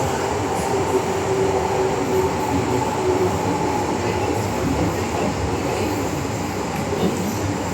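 MTR M-Train subway car running between stations, heard from inside the carriage: a steady rumble of wheels on track with a faint thin whine that fades out about three seconds in.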